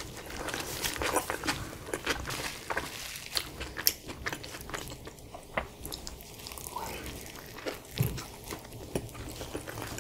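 Close-miked eating of a spicy chicken wrap: biting into the soft tortilla wrap and chewing it, with many small mouth clicks.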